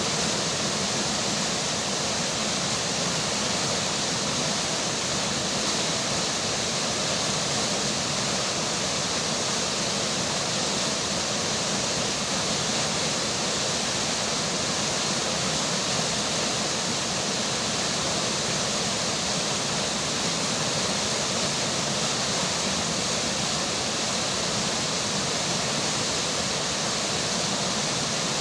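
Steady rush of a flowing river under falling rain, an even, unbroken hiss of water with no separate drops or splashes standing out.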